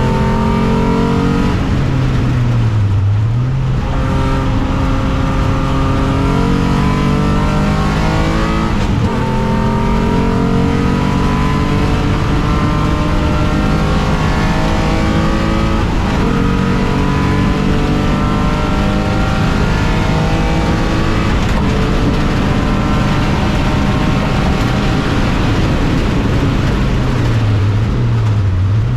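Alfa Romeo 156's 3.0-litre V6 race engine at full throttle, its pitch climbing in long pulls through the gears with a break at each upshift. The revs drop sharply under braking about three seconds in and again near the end.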